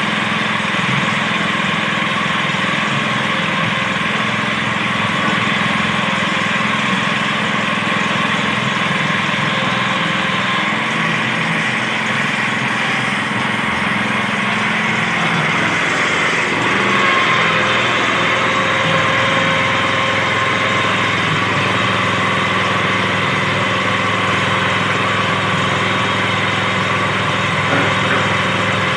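Small engine of a simple well-drilling rig running steadily, with a slight shift in pitch about halfway through.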